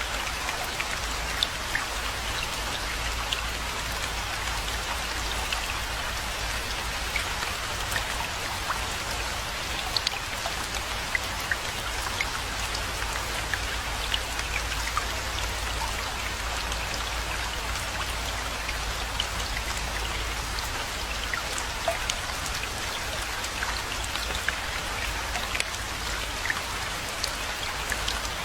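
Steady rainfall: an even hiss of rain with many separate drops ticking close by, over a low steady rumble underneath.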